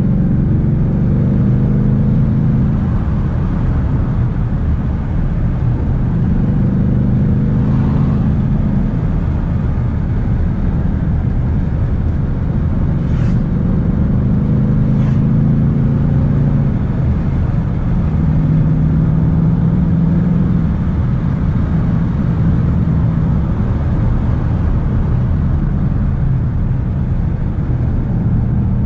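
Ford Mustang GT's 5.0-litre V8 running at part throttle, heard from inside the cabin over steady tyre and road noise. Its note rises and falls every few seconds with throttle changes and a shift up a gear.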